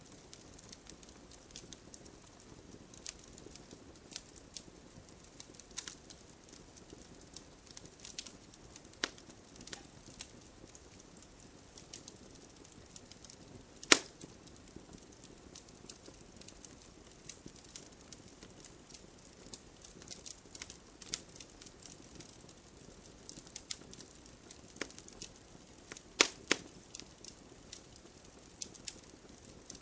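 Wood fire crackling in a fireplace: irregular sharp pops and snaps over a soft low hiss. The loudest pop comes about halfway through, and a quick cluster of pops follows near the end.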